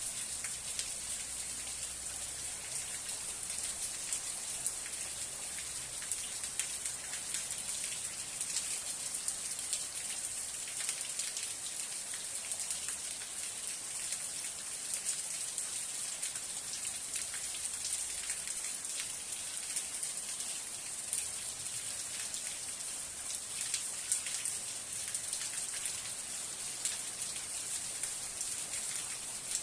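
Steady rain falling: an even, dense hiss with many separate drops ticking sharply close by.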